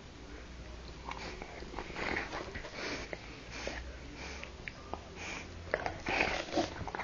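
Dog sniffing repeatedly in short, irregular bursts, with small clicks among them.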